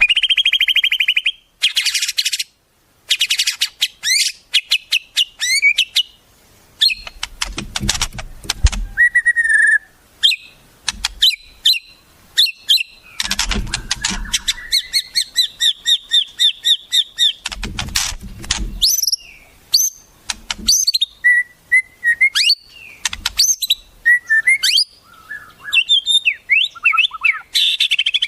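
Wild songbird song played as a training track for shamas: a rapid, varied string of high whistles, sliding notes and chirps, with a steady fast trill in the middle. Three short bursts of rapid clicking come between them.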